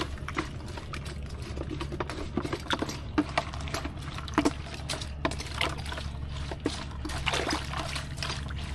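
Water pouring, trickling and splashing as freshly cleaned field frogs and fish are rinsed, with scattered small clicks and knocks. A steady low hum runs underneath.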